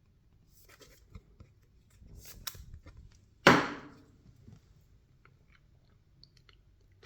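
Baseball trading cards being handled and shuffled by hand: light crackling and sliding, with one short, much louder noisy rustle about three and a half seconds in.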